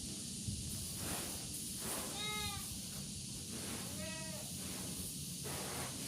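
Two short animal calls, one about two seconds in and a shorter, higher one about four seconds in, over a steady background hiss.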